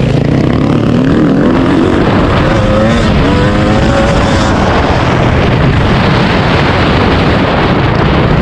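Dirt bike engine running loud, its pitch rising and falling as the revs go up and down, over a heavy steady rumble.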